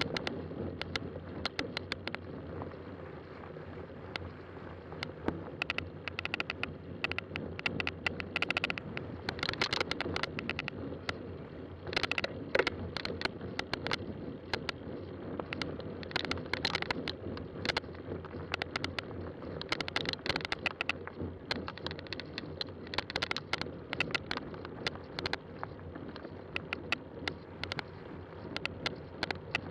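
Fat-tire bike riding on a trail: steady tyre and wind noise with frequent clicks and rattles from the bike.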